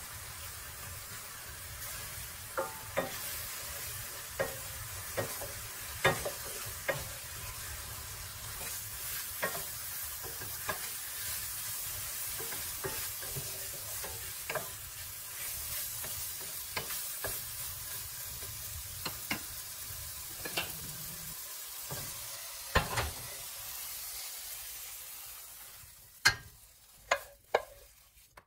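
Apple slices sizzling in a hot skillet while a wooden spatula stirs them, knocking and scraping against the pan every second or so. Near the end the sizzle dies away and a few sharp clicks follow.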